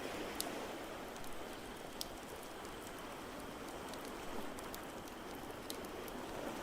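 Fireplace crackling: a few sharp pops scattered over a steady rushing wash of ambient noise.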